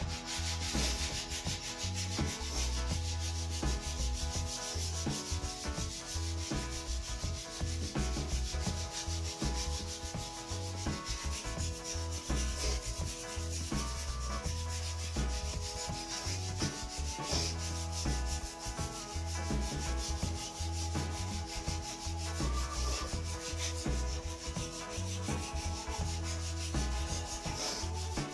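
Sandpaper rubbing on a new wooden snooker cue shaft, a continuous rasping hiss of rapid strokes with no break.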